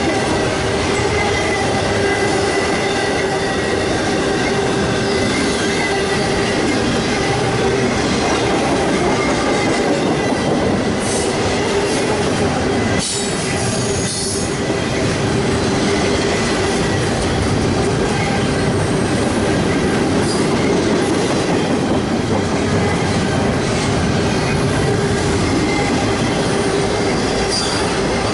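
CSX intermodal freight train's cars rolling steadily past, wheels squealing on the rails with some clickety-clack over the joints.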